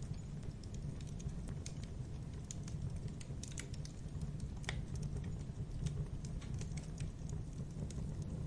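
Logs burning in a fireplace: irregular crackles and small pops over a steady low rumble of the flames, with one sharper pop about halfway through.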